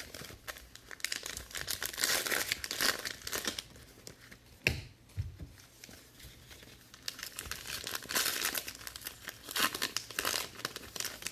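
Plastic wrapping on trading-card boxes being torn open and crumpled by hand, in irregular crinkling bursts, with a sharp click about halfway through.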